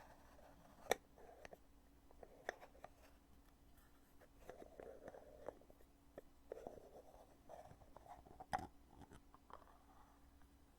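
Weighty lid of a cosmetic foundation container being opened and closed: soft clicks and faint rubbing, with two sharper snaps, one about a second in and one near the end.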